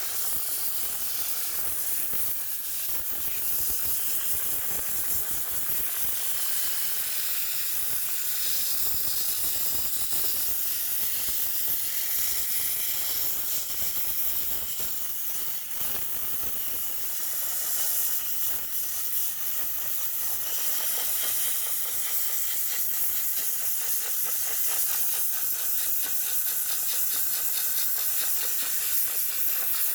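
Steam cleaner jetting steam onto a heat pump dryer's condenser coil: a steady hiss that dips briefly about halfway through.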